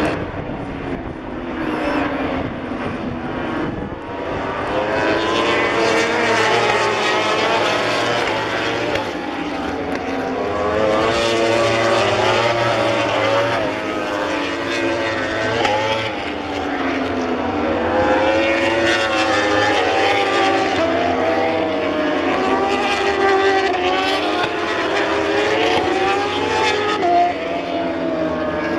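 A stream of MotoGP racing motorcycles passing at speed, several at once. Their engine notes overlap and keep rising and falling through acceleration and gear changes.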